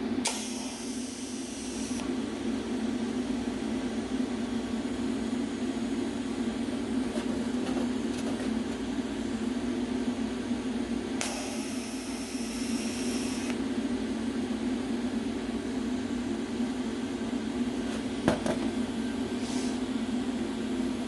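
Two TIG welding tacks on stainless steel exhaust tubing, each a high-pitched hissing buzz lasting about two seconds, one at the start and one about halfway through, over a steady machine hum. A short click near the end.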